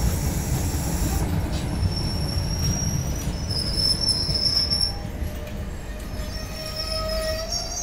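Passenger train coaches rolling past on an arriving train, with a steady low rumble of wheels on rail. From about two seconds in, a high-pitched metallic squeal from the wheels holds for a few seconds, and a lower squeal joins near the end.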